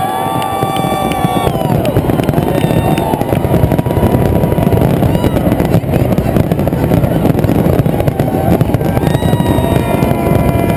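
Big fireworks display going off in a continuous barrage of rapid bangs and crackles. A few held tones sound over it near the start and again near the end.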